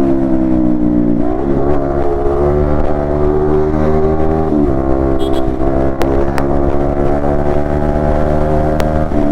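Yamaha MT-15 V2's single-cylinder engine through an Akrapovic exhaust, accelerating under load, its note climbing steadily in each gear. It drops in pitch and climbs again at two upshifts, about a second in and about halfway through.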